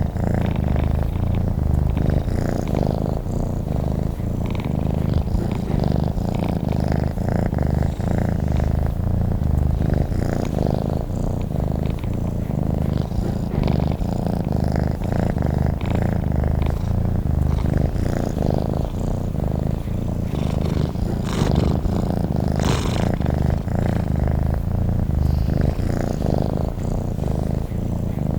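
Domestic cat purring steadily in a continuous, even low rumble.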